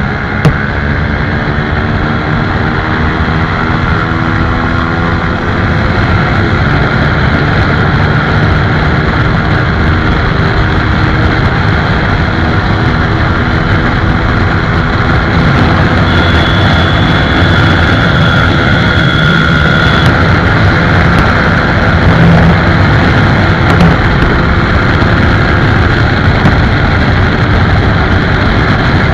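Motorcycle engine running at speed, loud and steady, with road noise.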